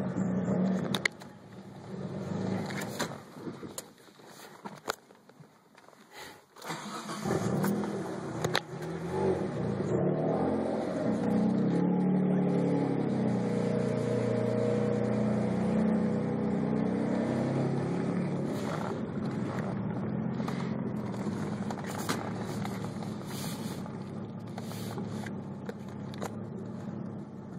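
Twin-turbo 3.0 L V6 of a Mitsubishi 3000GT VR4 / Dodge Stealth idling roughly after a warm restart about 20 minutes after shutdown. The engine sound sags and nearly disappears for a few seconds, comes back strongly about seven seconds in, and then runs on with an uneven, wavering idle.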